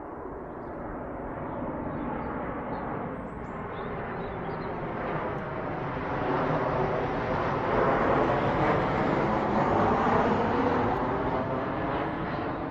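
A passing vehicle's steady rushing noise, swelling over several seconds and easing off near the end.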